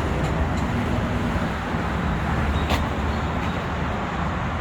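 Steady low rumble of vehicle and traffic noise, with no single event standing out.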